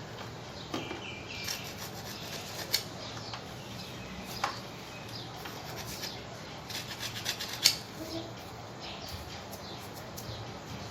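Hand rubbing and scraping on a hard surface, in irregular scratchy strokes with a few sharp clicks, the loudest near the middle, over a steady background hiss.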